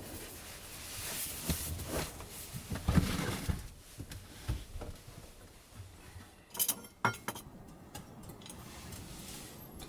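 Small hard objects being handled: a run of knocks and clinks, then a quick cluster of sharp clicks about two-thirds of the way through.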